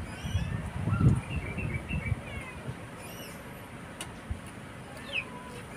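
Small birds chirping in short, separate calls, with a quick falling chirp near the end. Low dull thumps in the first two seconds, the loudest about a second in.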